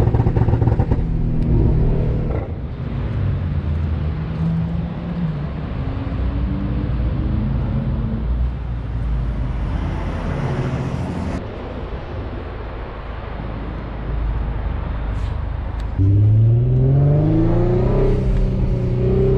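Twin-turbo Infiniti G35 coupe's VQ35DE V6 heard from inside the cabin, revving up under hard acceleration. There is a quieter stretch in the middle, then near the end a strong pull rises steadily in pitch.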